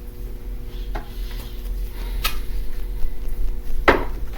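Tarot cards being handled and shuffled, giving three sharp snaps or taps about a second apart, the last the loudest, over a steady low electrical hum.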